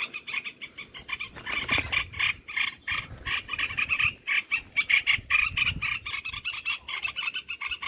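Bulbuls chattering in a fast, continuous run of short sharp notes, several a second: the merbah belukar lure call used to draw birds to the trap.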